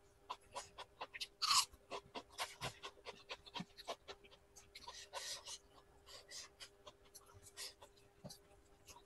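Close-miked eating sounds: chewing and lip smacking on rice and chicken curry, a quick run of wet mouth clicks with a few short breathy bursts.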